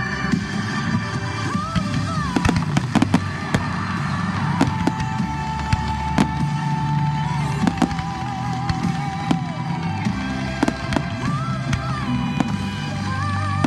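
Fireworks going off in a run of sharp bangs and cracks, scattered irregularly, over loud music with a long held sung note.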